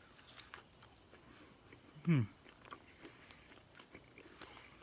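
A person chewing crinkle-cut French fries, with faint scattered crunching clicks and a short hum falling in pitch about two seconds in.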